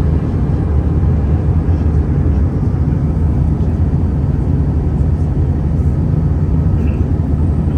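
Airbus A320neo cabin noise on final approach: a steady, loud low rumble of the engines and airflow, unchanging throughout.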